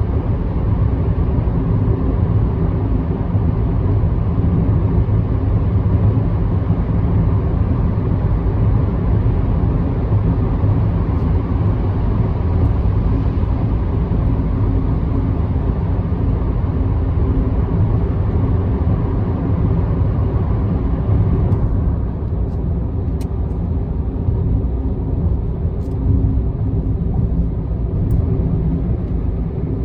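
Car driving at expressway speed: steady tyre and road noise over a low engine rumble. About two-thirds of the way through, the higher hiss drops off abruptly while the low rumble carries on.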